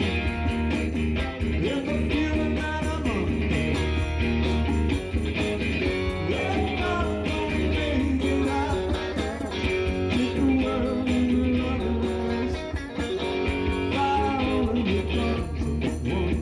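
Rock music with electric guitar, played steadily and loudly without a break.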